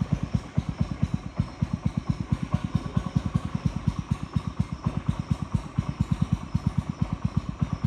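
Boat engine running steadily, a rapid even thudding of about seven beats a second.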